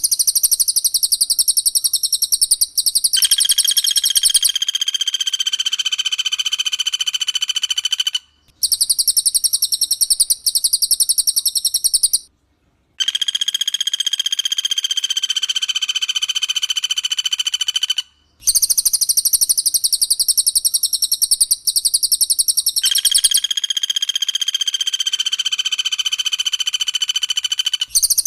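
Cililin and pelatuk bawang bird calls from a song-training recording. A fast, high chattering trill runs in four long phrases broken by short gaps, and partway into each phrase a long, steady whistled note joins it.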